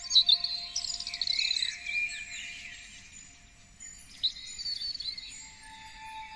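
Songbirds singing and chirping in two busy spells, with a rapid trill about a second in, over soft, long-held tones of ambient music.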